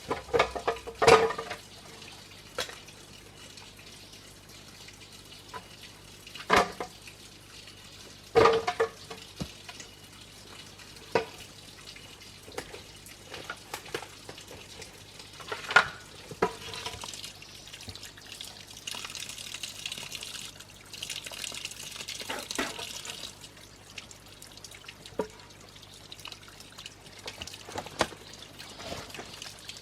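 Water being handled by hand: sharp splashes every few seconds, and a few seconds of steady pouring in the second half.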